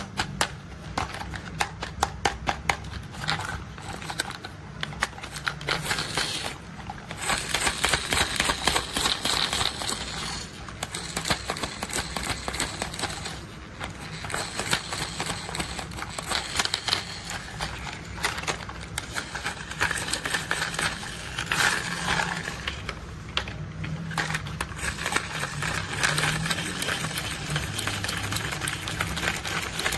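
Rapid clicking and rattling of plastic toy construction vehicles being handled, several clicks a second with a few short pauses.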